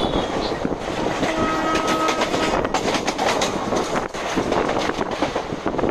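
Passenger train running, heard from a coach window: wheels clattering over rail joints amid steady rumble and wind. A horn sounds about a second in and holds steady for about a second and a half.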